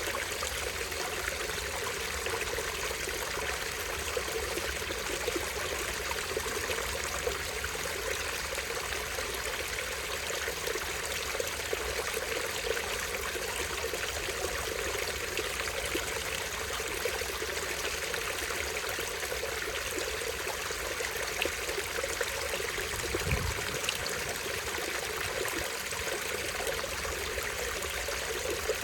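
Small stream spilling over a tiny waterfall: a steady, even rush of running water, with one short low thump about two-thirds of the way through.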